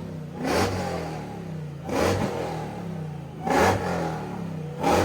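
A car or truck engine idling and being revved in short, sharp blips, one about every second and a half.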